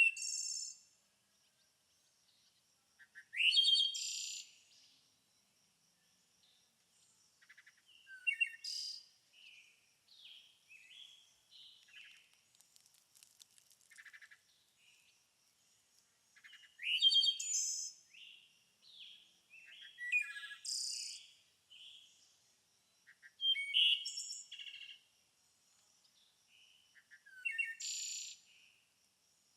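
Songbirds singing in spring woodland: a loud bird song phrase every few seconds, with fainter chirps and a thin, steady high trill from further off in between.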